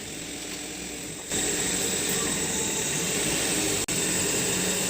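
A vehicle's engine running steadily with road noise, coming in suddenly about a second in.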